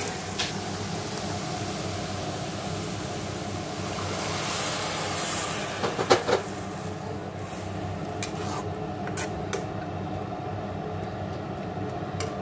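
Grated carrots frying in ghee in a steel pan, a steady sizzling hiss. Milk is poured in partway through, with a brief louder hiss that then dies down. A metal spatula clicks against the pan about six seconds in and a few times near the end.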